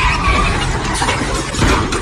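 A vehicle's engine running hard, with tyres squealing in a rough, steady rush.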